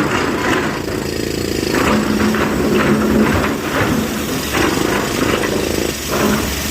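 Diesel engine of heavy construction machinery running steadily under work.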